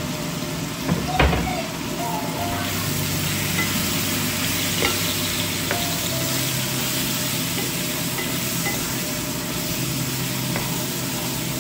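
Chicken pieces sizzling in hot oil in a frying pan while being stirred with a spatula, with a couple of sharp spatula knocks against the pan about a second in and light scrapes after that.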